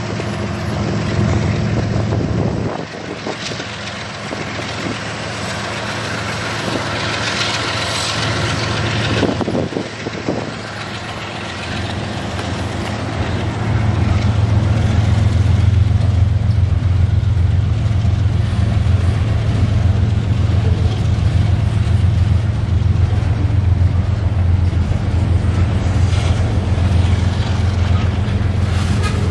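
Diesel-hauled freight train passing close by: the last locomotive's engine hums as it goes past, then the freight cars roll by on the rails, and the wheel rumble grows louder and steadier about halfway through.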